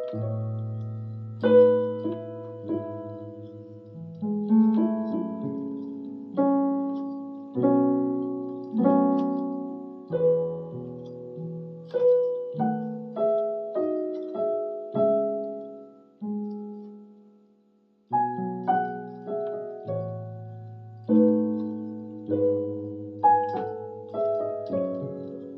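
Electronic keyboard with a piano voice playing a slow Korean drama soundtrack melody over low sustained bass notes. About two-thirds of the way through, the notes die away to a brief pause, and then the playing starts again.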